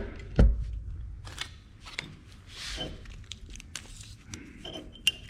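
Workbench handling sounds while marking out a 2-inch piece on 1-inch square steel tube: a knock about half a second in, scattered light clicks and a short scratching stroke near the middle.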